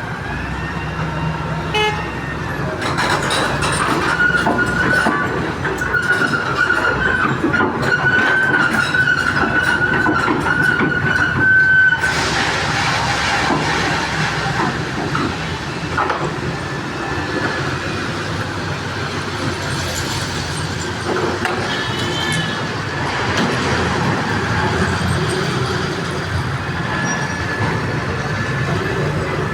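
Street traffic and heavy machinery noise, with a long steady high-pitched tone, horn-like, held for about nine seconds over a patter of clicks and cutting off sharply.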